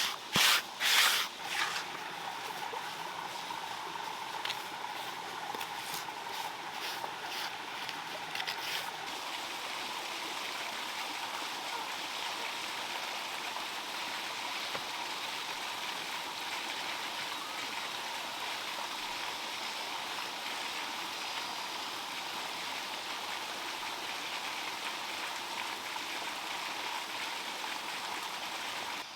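Steady flow of running water. A few loud knocks or scrapes in the first two seconds, then lighter clicks until about nine seconds in.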